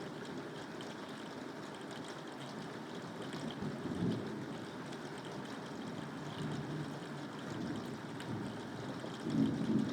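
Steady rain falling, with low rumbles of thunder: a brief swell about four seconds in, and a louder roll building near the end.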